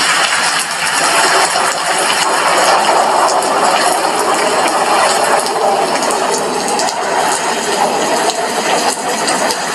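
Steady heavy rain with drops striking window glass: a dense hiss dotted with many small ticks from individual drops.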